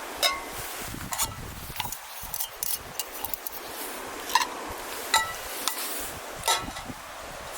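Irregular small metallic clinks, a dozen or so, some ringing briefly, over a steady rush of wind.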